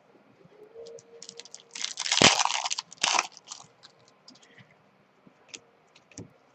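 Crinkling and tearing of a foil trading-card pack wrapper, loudest for about a second and a half near the middle, followed by light clicks and flicks as the cards are handled.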